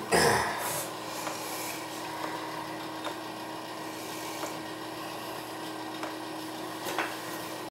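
Rubbing and light scraping of hands and tools working on toilet plumbing parts, with a short rustle at the start and a few small clicks, over a faint steady hum.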